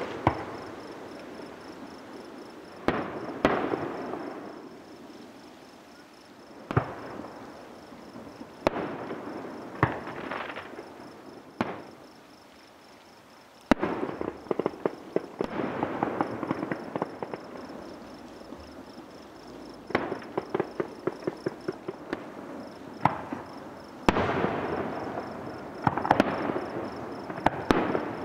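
Aerial fireworks display: single shell bursts bang every second or two, each trailing off in an echoing rumble, then from about halfway through come runs of rapid crackling pops from crackle shells, thickest near the end.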